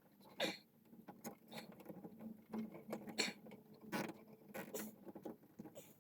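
Wiring being handled and tucked up under a car's dashboard: irregular rustling, scraping and light clicks of wires and plastic trim.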